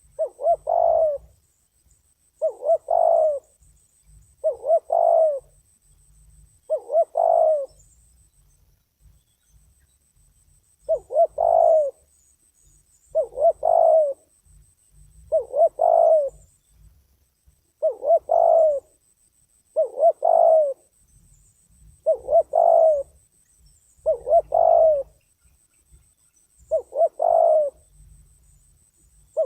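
Spotted dove (terkukur) cooing over and over: about a dozen calls, each a short group of quick notes, roughly one every two seconds, with a pause of about three seconds a third of the way in.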